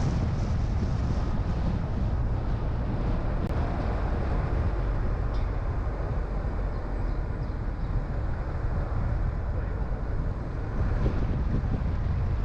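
Car driving along at steady speed: a constant low rumble of road and engine noise with some wind hiss.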